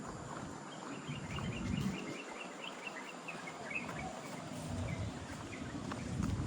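A bird giving a rapid series of short, falling chirps for several seconds, over steady outdoor background noise with intermittent low rumbling.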